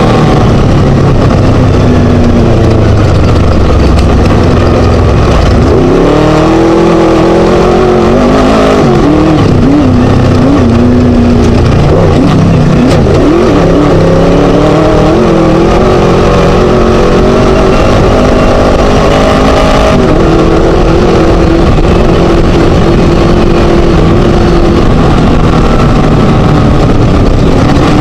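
Scat racing engine of a Chenowth class 1 desert buggy running hard and loud, its pitch rising and falling again and again with throttle and gear changes.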